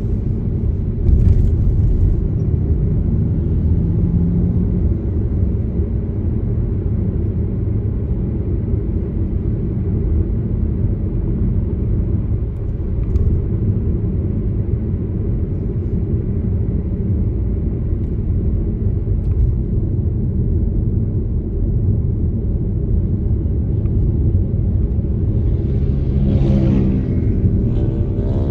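A car driving at steady speed: continuous low road and engine rumble. A brief pitched sound with several overtones swells near the end.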